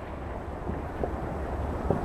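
A lull in a fireworks display: a steady low rumble, with a few faint pops about a second in and near the end.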